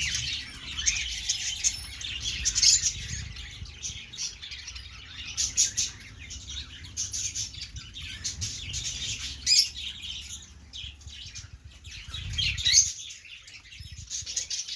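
Many caged lovebirds chattering together in a stream of sharp, high chirps and squeaks, with louder single calls standing out now and then.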